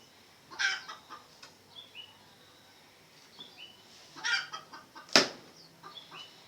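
Red junglefowl giving two short, harsh clucking calls, with small birds chirping in the background. A single sharp knock about five seconds in is the loudest sound.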